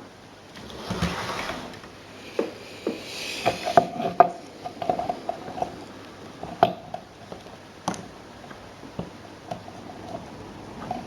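Irregular clicks and knocks of small objects being handled, with brief scraping about a second in and again around three seconds, and short squeaks in the middle.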